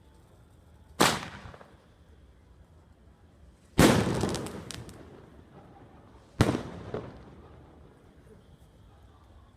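Fireworks going off: three loud bangs, about a second, four seconds and six and a half seconds in, each fading away in a long echoing tail. The middle bang is followed by a quick run of crackling pops.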